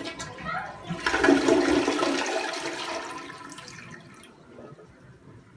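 Kohler Wellworth Classic toilet giving a full flush: a rush of water that swells about a second in and dies away over the next few seconds.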